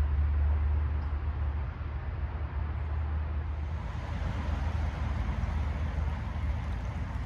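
Light rain falling on woodland, an even hiss over a heavy, unsteady low rumble; the hiss turns brighter about three and a half seconds in.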